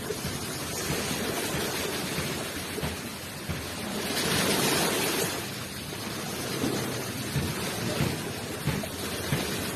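Ocean waves washing onto the shore in a steady rush of surf. One wave swells to its loudest about halfway through.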